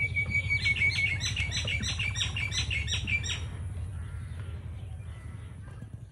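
A songbird singing: one held whistle for about a second, then a quick run of short repeated notes that stops a little past three seconds in. A steady low rumble runs underneath and fades near the end.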